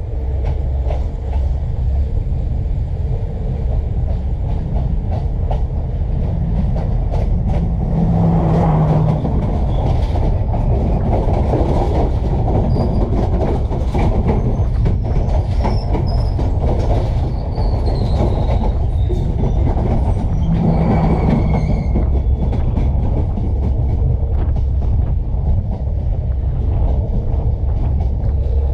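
Train running past: a steady, loud rumble of wheels on the rails with rapid clicking over the rail joints, and faint high wheel squeal through the middle.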